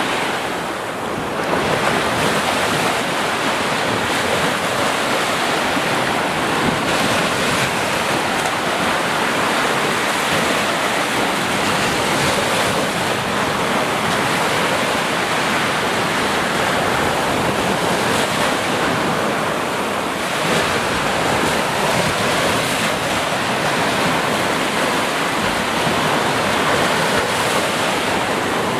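Ocean surf: waves breaking and washing continuously, a steady dense rush with gentle swells in loudness.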